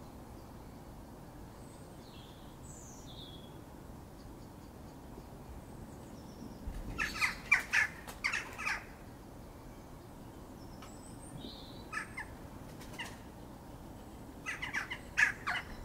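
Wild birds calling: two loud bouts of rapid, harsh chattering notes, about seven seconds in and again near the end, over faint high chirps.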